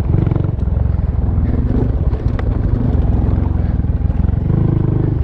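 Honda Monkey's single-cylinder engine running on the move, its pitch rising and falling a little with the throttle.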